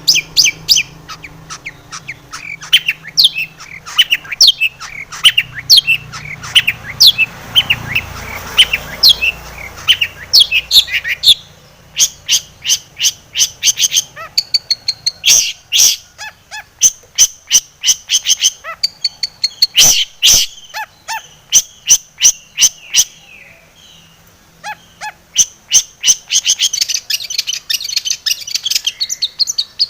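Long-tailed shrike (cendet) in full song, packed with mimicked notes: first a fast series of downward-sliding chirps, then from about halfway a run of sharp clicking notes, and near the end a dense high twittering.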